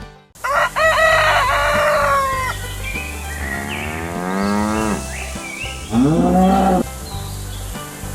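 Farm animal calls, a cow mooing among them, over background music. There are three separate calls, the longest rising in pitch in the middle.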